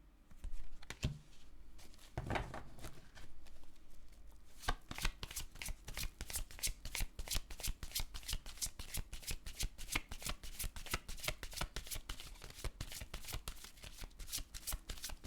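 A deck of tarot cards shuffled by hand. A few soft handling knocks come first, then from about five seconds in a fast, steady run of card flicks and slaps.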